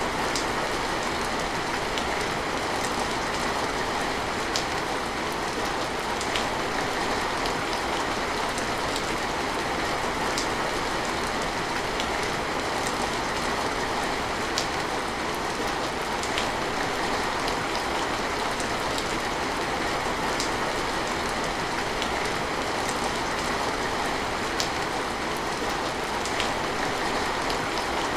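Steady rain falling, an even hiss with scattered sharper drops ticking on a surface every second or two.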